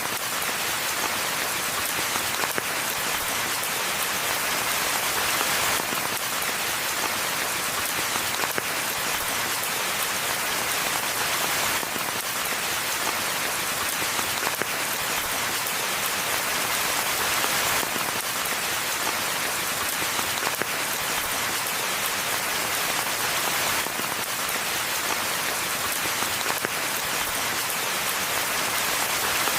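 Steady rainfall pattering on forest foliage and ground, an even hiss of many drops without pause.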